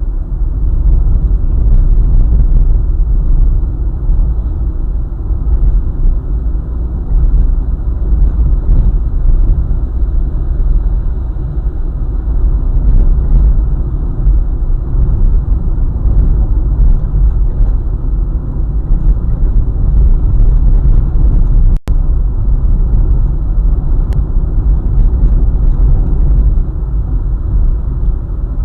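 Steady, loud low road rumble of a car driving along a highway. It cuts out for an instant about 22 seconds in.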